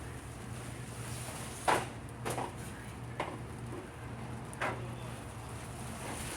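Four scattered short knocks, the loudest a little under two seconds in, over a steady low hum.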